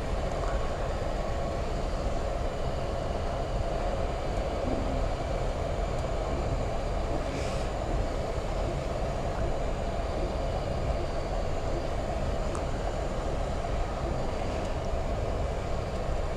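Steady cockpit rumble and hum of a Boeing 737 MAX 8 taxiing on one engine, with engine number 2 shut down and the APU running. The noise stays level throughout, with a couple of faint ticks.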